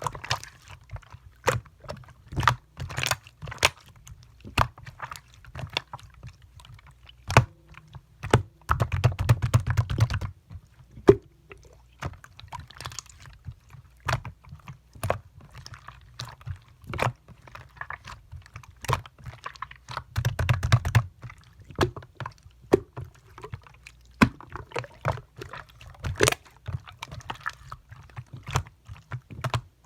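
Clear slime being pressed and stretched by hand, giving sharp clicking pops at an uneven pace, with denser bursts of crackling about nine seconds in and again about twenty-one seconds in.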